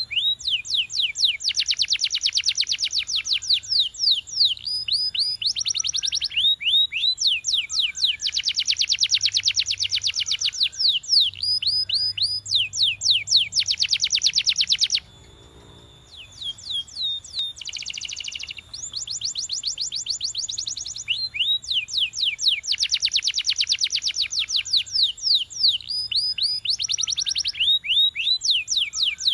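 Domestic canary singing long trilled phrases of rapid, sweeping notes in fast rolls. It breaks off briefly about halfway through, then resumes.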